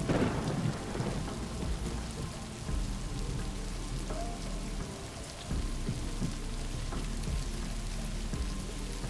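Steady rain with a sudden clap of thunder right at the start that fades into a low rumble over about a second.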